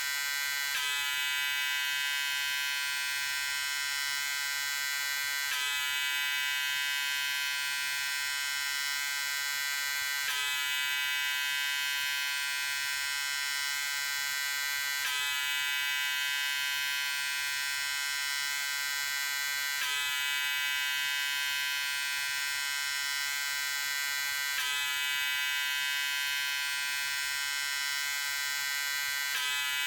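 Electric shaver buzzing steadily at a high pitch, with a slight click and shift in the buzz about every five seconds.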